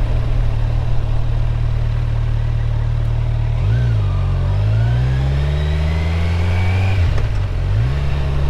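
Motorcycle engine under way, steady at first, then pulling harder with rising pitch; it drops sharply at about seven seconds as a gear is shifted, then climbs again.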